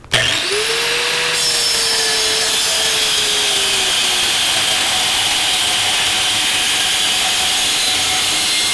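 Angle grinder with a cutoff wheel spinning up, its motor whine rising, then cutting into steel angle iron about a second and a half in with a steady harsh hiss; the motor pitch sags a little as the wheel bites.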